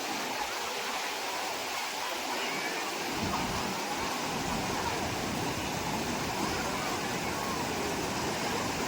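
Steady rushing noise of a waterfall's falling water, with a deeper rumble joining about three seconds in. Faint distant voices sit under it.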